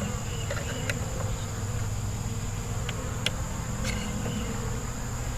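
Honeybees buzzing steadily around an open hive, with a few faint clicks.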